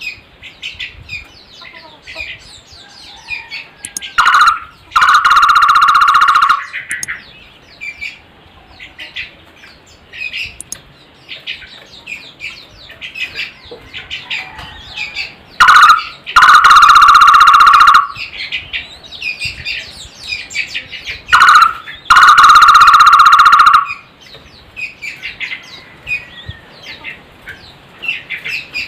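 Barbet (takur) giving a loud, rapid rolling trill three times, each about two seconds long and opening with a short rising note. Small birds twitter high and continually underneath.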